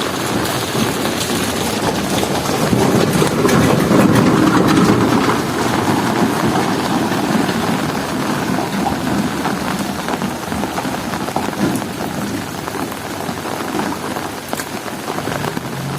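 Heavy rain falling steadily on hard surfaces, with a low rumble that swells a few seconds in and fades out again.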